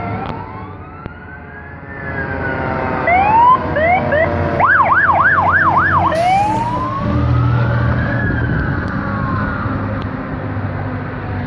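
Fire truck sirens, more than one sounding at once: a slow rising and falling wail, switching to a rapid yelp of about five quick sweeps around the middle, then back to a slow wail. A low engine rumble runs underneath.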